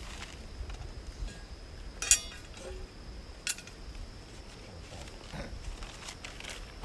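Metal pieces clinking together: one sharp clink with a brief ring about two seconds in, then a lighter click a second and a half later, over a faint steady high tone.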